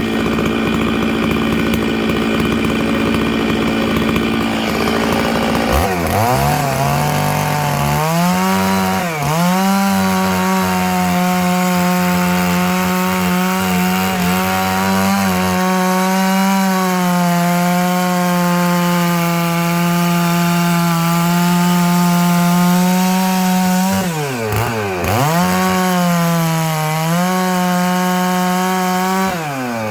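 Stihl MS 660 two-stroke chainsaw ripping dry larch lengthwise. It runs at steady high revs for the first few seconds, then drops in pitch as the chain bites and holds a lower, loaded note through the long cut, bogging briefly a few times, and comes back up to full revs near the end.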